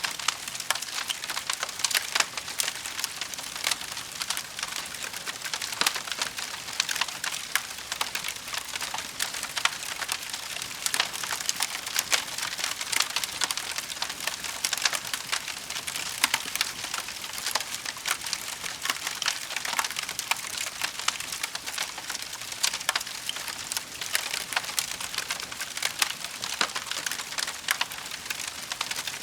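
Wood fire burning, with dense crackling and frequent sharp pops over a steady hiss.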